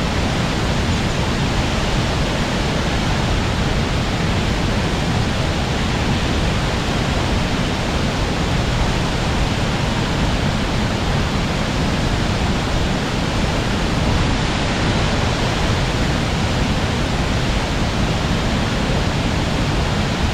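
Water pouring over a river weir (check dam) in a steady, loud, unbroken rush, heaviest in the low rumble.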